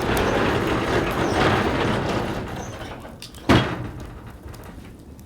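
Wood fire burning in a fire pit. A rush of noise swells and fades over the first three seconds, then one loud, sharp crack about three and a half seconds in.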